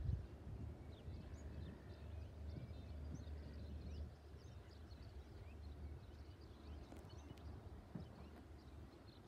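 Small birds chirping, many short scattered calls, over a low wind rumble on the microphone that eases about four seconds in, with a brief handling bump at the very start.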